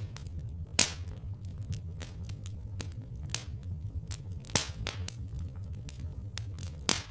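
Wood fire crackling, with irregular sharp pops and snaps, the loudest about a second in, around four and a half seconds in and near the end, over a steady low rumble.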